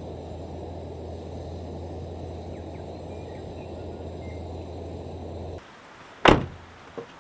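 A steady low hum and hiss stops abruptly about five and a half seconds in. Then a car door shuts with one loud thump, followed by a small click just before the end.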